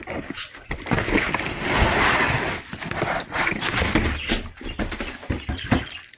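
Packaging rustling and crinkling as vacuum parts are lifted out of their box, with irregular knocks and clicks of parts being handled, loudest about one to three seconds in.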